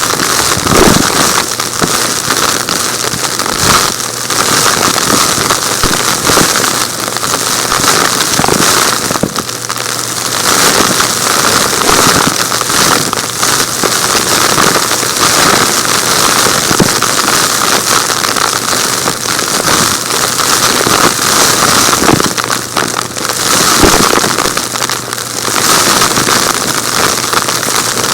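Vacuum cleaner running steadily while sucking up small rocks and grit, the pieces rattling and crackling through it in a constant irregular patter.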